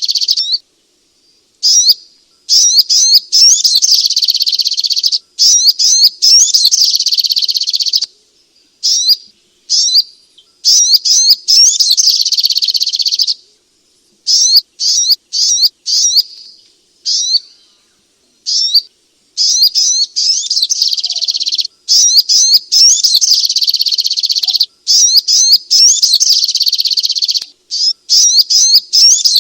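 Sogok ontong (little spiderhunter) singing in bursts of rapid, high, tinny chirps, each run lasting one to three seconds with short breaks between. This is a recorded song played to coax a sluggish, quiet bird into singing.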